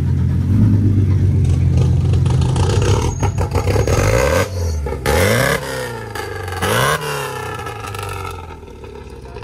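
Car engine just after start-up, running loud and steady at first, then revved in a few quick blips that rise and fall in pitch before settling back near the end. The start-up is called a little aggressive.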